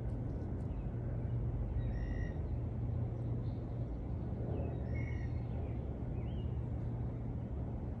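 Outdoor park ambience with a steady low rumble. A bird gives two short calls, about two and five seconds in, and a few brief chirps follow near the end.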